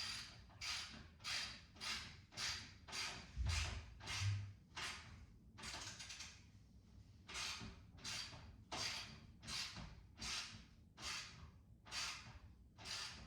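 A ratchet wrench tightening a nut onto a carriage bolt: a steady run of short ratcheting strokes, about one every 0.6 s, with a short pause about halfway through. A dull low thump sounds a few seconds in.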